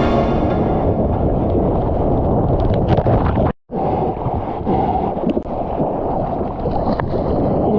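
Wind buffeting an action camera's microphone over rushing seawater: a loud, steady rumble with no clear pitch. It cuts to silence for a moment about three and a half seconds in, then carries on.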